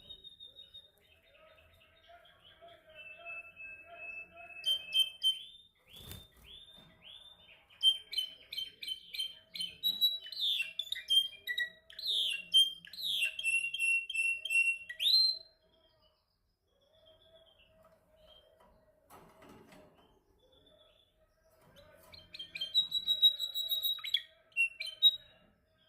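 Domestic canary singing: fast runs of repeated chirps and rolling trills, one long song phrase lasting over ten seconds, then a pause and a shorter burst of song near the end.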